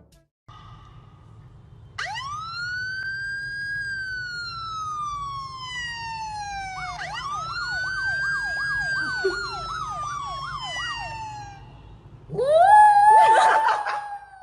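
Siren wailing: one long rise and slow fall, then a switch to a fast up-and-down yelp. Near the end a louder, rougher rising wail comes in.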